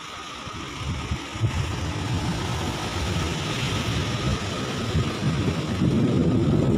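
A motor vehicle's engine running, its low rumble building over several seconds and loudest near the end.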